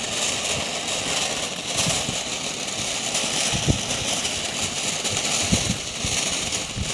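Backyard consumer firework spraying sparks with a steady hiss and crackle, broken by a few low thumps.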